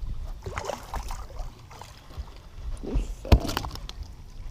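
Water sloshing and splashing beside an aluminum fishing boat, with one sharp knock a little over three seconds in.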